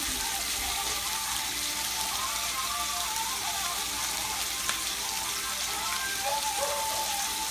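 Flank steaks and diced potatoes frying in pans on the stovetop: a steady sizzle.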